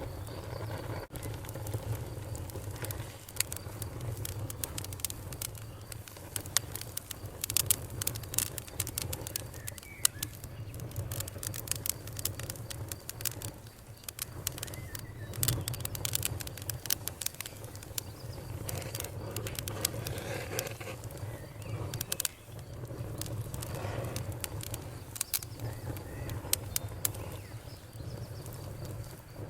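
Bonfire crackling, with many sharp pops and snaps that come thickest around a quarter and half of the way through, over a steady low rumble. Crickets chirp faintly in the background.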